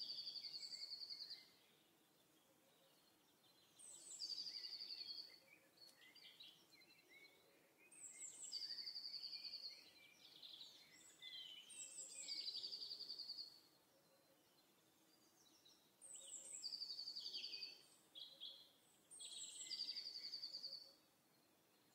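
Faint recorded birdsong: a small songbird repeating a short phrase with a fast trill, about once every four seconds.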